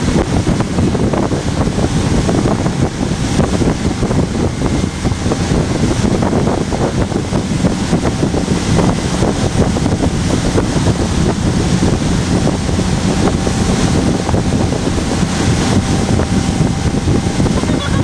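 Motorboat under way towing an inner tube: a steady engine hum under heavy wind buffeting on the microphone.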